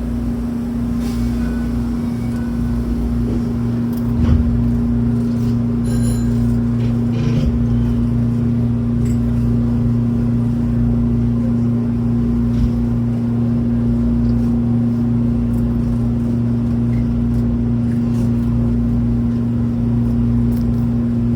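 Hanshin electric train heard from inside the passenger car as it pulls away and runs: a steady low hum with running rumble, and a few light knocks about four and six seconds in.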